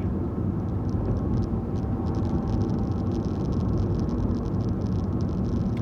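Car driving along a country lane: steady engine hum and tyre and road noise, heard from inside the cabin.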